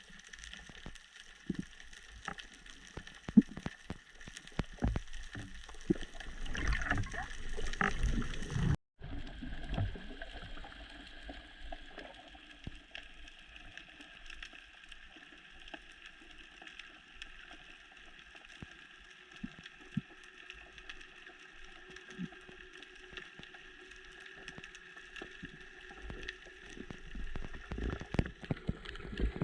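Underwater ambience: a steady hiss and faint hum dotted with many small crackling clicks, with some bubbling and knocks that grow louder for a few seconds before a sudden cut just before nine seconds. After the cut the same faint crackle and hum carry on, with more bubbling and knocking near the end.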